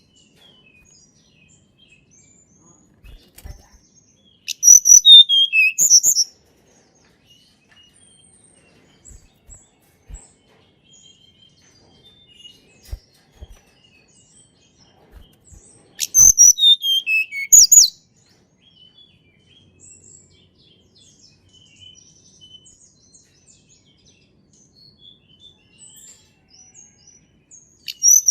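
Tledekan gunung (blood-breasted flowerpecker) singing: three bursts of rapid, high-pitched twittering, each lasting about a second and a half, about twelve seconds apart, with a falling run of notes inside each burst. Faint, scattered chirps come in between.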